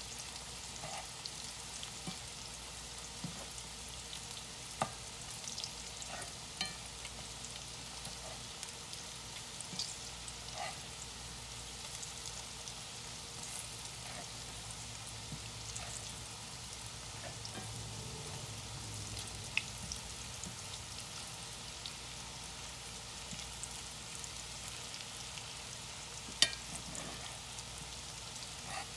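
Squash slices frying in hot oil in a cast-iron skillet: a steady sizzle, with a few sharp clicks of the metal slotted spoon against the pan as slices are turned, the loudest near the end.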